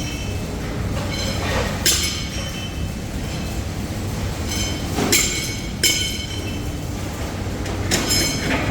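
Metal parts clanking and ringing a few times over the steady hum of factory machinery.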